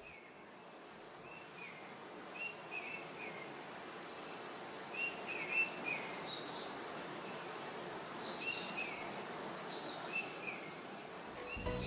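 Small birds chirping: short high calls in little groups of two or three, repeated every second or so over a steady background hiss.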